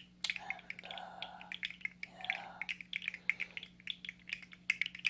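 3D-printed plastic fidget slug being worked in the hands, its jointed segments clicking and clacking in a rapid, irregular patter of light clicks, several a second, with soft rustling in between.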